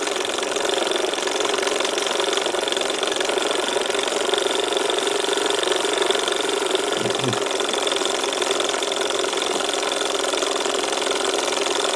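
Davies Charlton model hot air engine running steadily at increased revs, because its gas burner is getting a bit more pressure from a freshly topped-up gas bottle.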